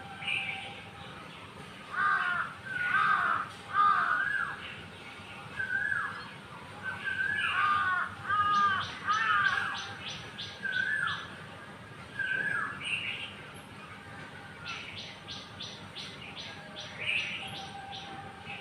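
Wild birds calling: a string of short, harsh, arched calls repeated every second or so, with a fast rattling chatter of about five notes a second breaking in twice, once past the middle and once near the end.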